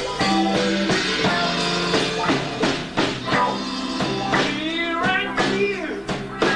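Live rock band playing: electric guitars over bass and drums, with bending lead lines and a steady beat.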